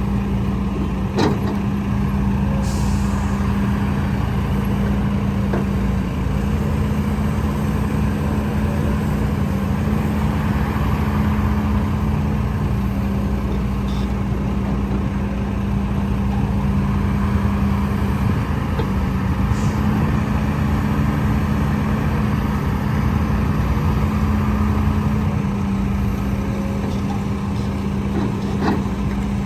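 Heavy diesel earthmoving machinery running steadily, a constant low engine drone. There are a few brief hisses and a click.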